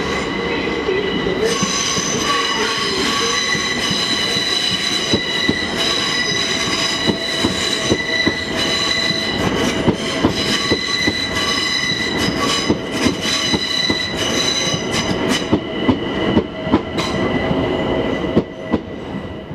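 Train running on rails with a steady high-pitched squeal from the wheels on the track. Sharp clicks from the wheels crossing rail joints come more and more often in the second half.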